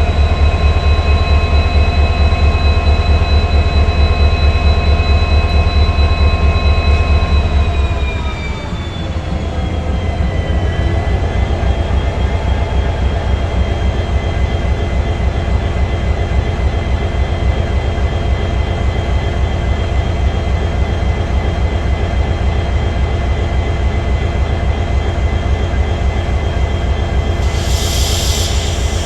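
EMD WDP4B diesel locomotive's two-stroke V16 engine running with a steady whine. About eight seconds in, the engine speed falls over two or three seconds, the whine dropping in pitch, and it settles to a lower steady running. A short hiss comes near the end.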